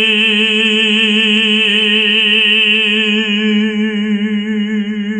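A tenor holding one long sung note in classical style on the syllable 兮 (xi), with an even vibrato and a strong ringing upper resonance. It is sung relaxed, as a demonstration of a forward-placed tone.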